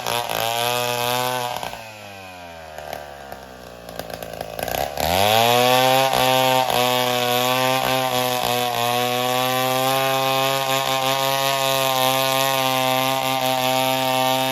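Chainsaw engine running at high revs, easing off with a falling pitch about two seconds in, then revved sharply back up about five seconds in and held at full throttle.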